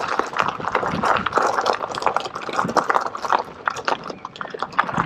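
Electric unicycle tyres rolling through wet mud on a trail, squelching and splashing with a dense run of small clicks and crackles.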